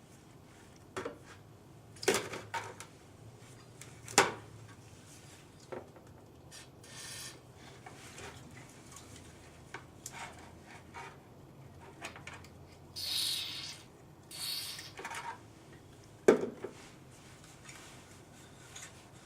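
Scattered sharp metal knocks and scrapes of hand work on a distributor housing and its seized shaft, the loudest knocks about two, four and sixteen seconds in, with short hissing rushes near the middle.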